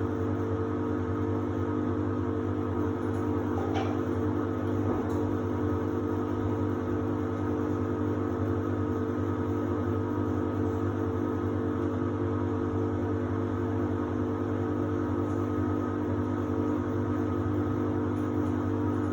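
Samsung WD70T4047CE washer-dryer running with a steady electric hum, with a faint click about four seconds in.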